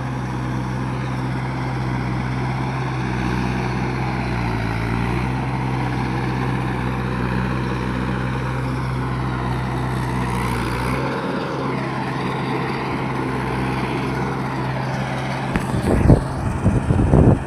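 Mahindra 585 tractor's diesel engine running steadily; about two-thirds of the way through its deep low rumble drops away and the note changes. A few loud thumps near the end.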